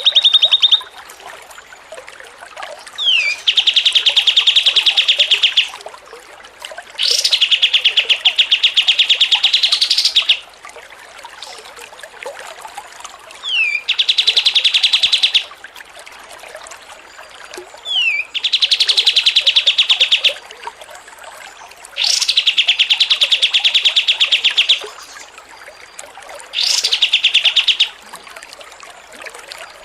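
A songbird repeating one phrase about six times, roughly every four seconds: a short sharp falling note, then a long, very fast rattling trill.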